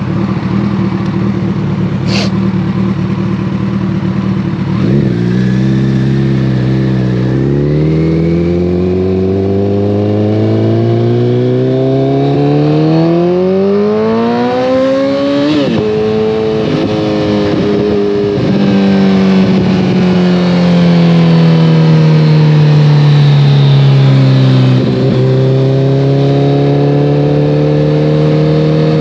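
2014 Kawasaki ZX-14R's inline-four through a full Brocks Alien Head 2 exhaust, under way. It runs steady, drops in pitch at a gear change about five seconds in, then pulls in a long rising note; after another upshift it falls away slowly as the bike slows, and picks up again after a shift near the end.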